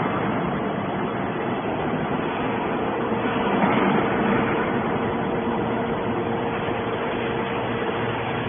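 Hydraulic scrap-metal baler running: a steady mechanical hum with a constant tone under heavy noise, swelling briefly about three and a half seconds in.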